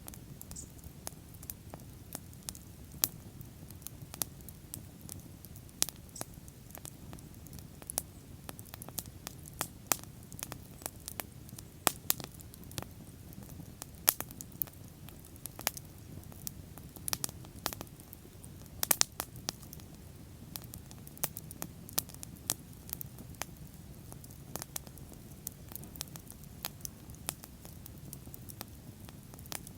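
Wood bonfire burning: a steady low rumble of flames with irregular sharp crackles and pops, several a second, a few of them louder snaps.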